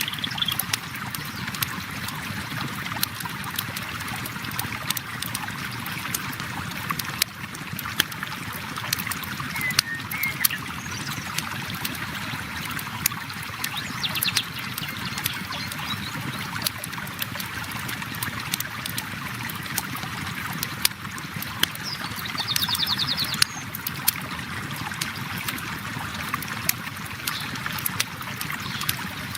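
Steady flow of river water with a campfire crackling, sharp pops scattered irregularly over it. A short high trill sounds twice, about halfway through and again near three-quarters of the way in.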